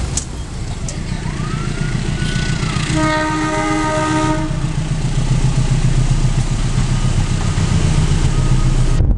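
An approaching diesel locomotive: a low engine rumble grows steadily louder, and about three seconds in a single horn blast lasts about a second and a half.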